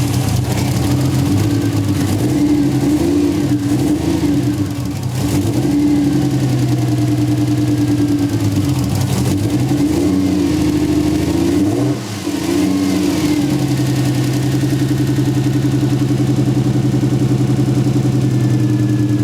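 Toyota 1JZ VVT-i straight-six running just after starting, its revs rising and falling several times under the throttle, then settling to a steady idle about two-thirds of the way through. It is still misfiring, on a cylinder the owners had found not firing, and they wonder whether it is even worse.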